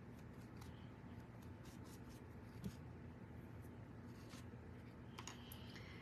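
Faint, scattered light taps and rubbing of paint being applied to a small wooden ornament, with one soft knock partway through.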